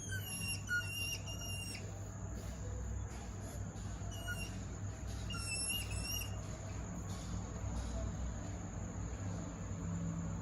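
Pygmy hedgehogs mating, giving short high-pitched chirps and whistle-like notes. The chirps come in a quick cluster in the first two seconds and again around four to six seconds in, over a steady low hum.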